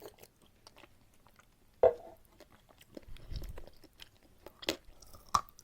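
Close-miked chewing of eating chalk: a sharp loud bite about two seconds in, then scattered crunching chews, with a low dull thud around the middle.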